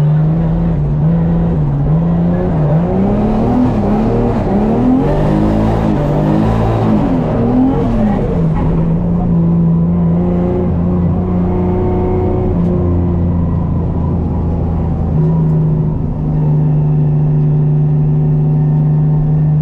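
Toyota GT86's engine heard from inside the cabin, running hard at a steady drone, then revving up and down several times between about three and eight seconds in. It settles back to a steady drone, with a brief dip in level about sixteen seconds in.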